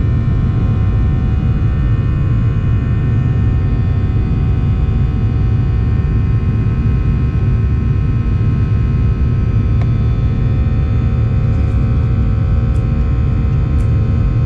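Steady, loud jet-engine noise inside a Boeing 737-800's passenger cabin: a deep rumble from the CFM56-7B turbofans with a stack of steady humming tones above it, holding level throughout.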